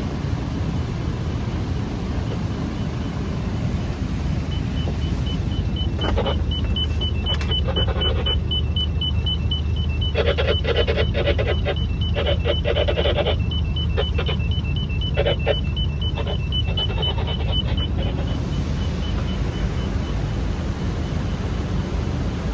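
Yacht's inboard engine running steadily, with a rapid high electronic beeping from the depth sounder's shallow-water alarm for most of the time as the depth under the keel drops. Several louder bursts of noise come and go in the middle.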